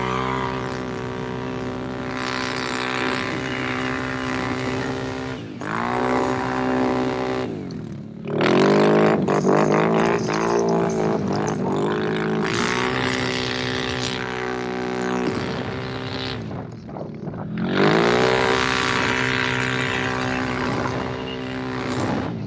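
Can-Am Renegade ATV V-twin engine revving under hard throttle, its pitch climbing and dropping in several surges as the rider gets on and off the gas, loudest about eight to twelve seconds in.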